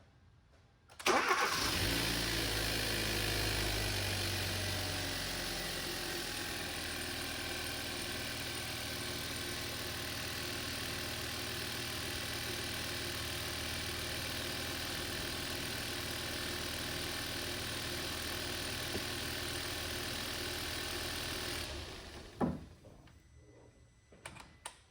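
A rebuilt Hyundai Veloster 1.6 turbo G4FJ four-cylinder engine starts about a second in, runs a little higher for the first few seconds, then settles to a steady idle with no knocking noise, a good sound by the owner's ear. It is switched off after about 20 seconds of running, and a single thump follows.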